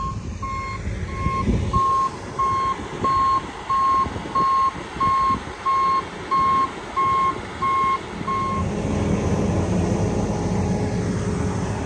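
Backup alarm of a reversing heavy vehicle beeping evenly, about one and a half beeps a second, over its running engine; the beeping stops about three-quarters of the way through while the engine keeps running.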